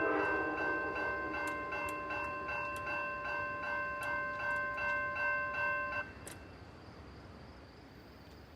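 Railroad crossing bell ringing rapidly, about three strokes a second, then cutting off suddenly about six seconds in.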